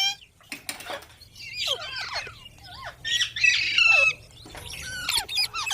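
Rose-ringed (ringneck) parakeet giving a series of short, harsh squawking calls that swoop up and down in pitch, loudest about three to four seconds in.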